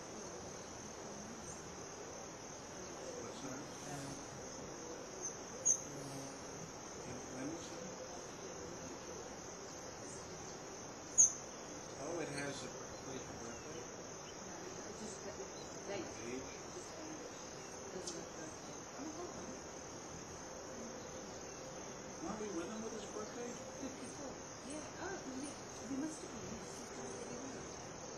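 Insect chorus trilling steadily at a high pitch, with a few brief sharp high chirps, the loudest about 11 seconds in.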